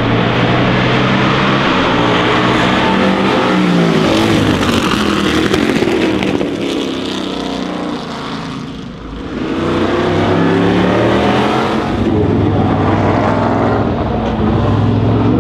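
Can-Am race cars' engines at high revs as the cars pass, pitch rising and falling with the gear changes. The sound eases briefly around the middle, then builds again with a rising note toward the end.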